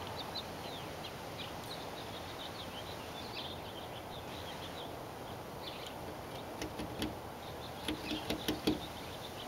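Birds chirping in the background over a steady outdoor hiss, with a run of sharp light clicks and knocks in the last few seconds.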